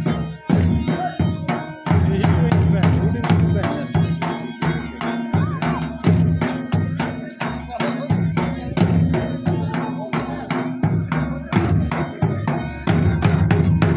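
Live drum-led folk music for an attan dance: a steady, rapid drum beat of several strokes a second over sustained melodic tones.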